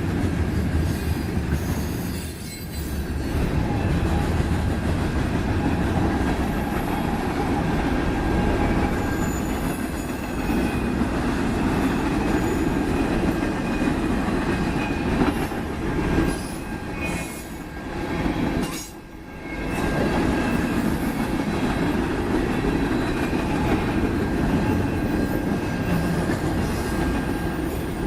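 Freight cars of a mixed manifest train rolling past: a steady rumble and clatter of steel wheels on rail, with a thin, faint wheel squeal held underneath. The sound briefly dips and then comes back about two-thirds of the way through.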